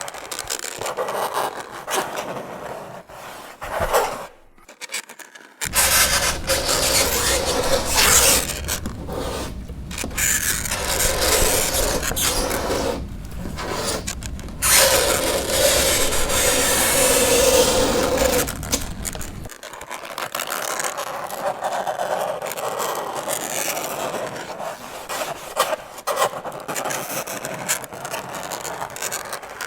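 Fingernails scraping across a chalkboard in repeated strokes, with a brief pause about four seconds in. In the middle comes a held screech lasting a few seconds.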